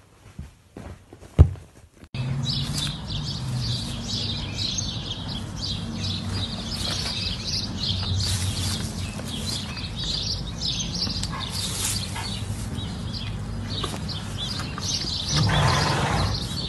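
A few soft taps and one sharp click, then at about two seconds in, small birds start chirping continuously over a steady low background rumble.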